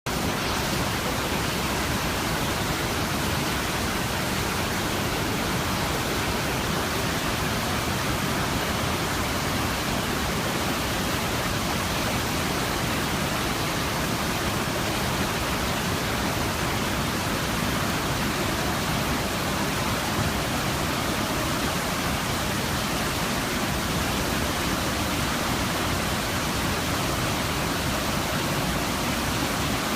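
Kegon Falls, a 97 m waterfall, thundering in a steady, unbroken rush of falling water.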